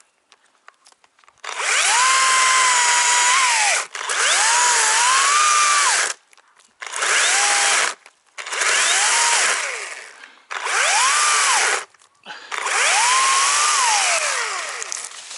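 Battery-powered chainsaw run in six bursts of a second or two each, its motor whine rising in pitch, holding, then winding down at each release of the trigger. The later bursts are shorter, as the battery is close to running flat.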